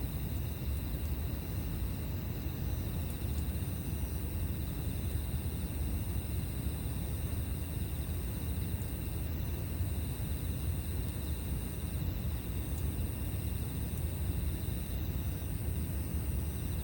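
Outdoor campsite ambience: insects keep up a continuous high-pitched trilling over a steady low rumble, with a faint crackle or two from the campfire.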